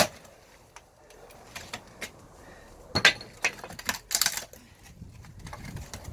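Knocks and clatter of split firewood: one sharp knock right at the start, then scattered light clicks and a quick run of hard clacks about three to four seconds in.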